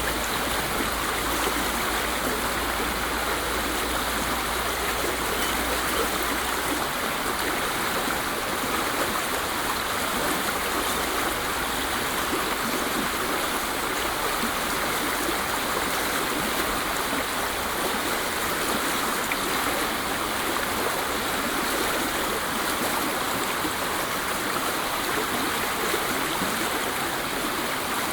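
Waterfall: a steady, unbroken rush of falling water. A faint low rumble underneath drops away about seven seconds in.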